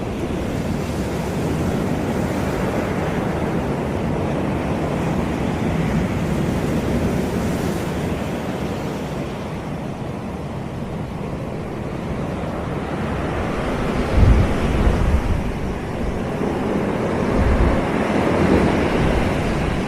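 Sea waves washing onto a beach, a continuous surf wash that swells and eases twice. Wind buffets the microphone in a few low rumbles about two-thirds of the way through.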